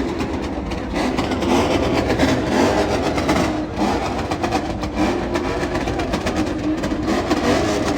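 Car engine revving hard and held at high revs, its pitch wavering up and down, typical of a car doing a burnout or donuts.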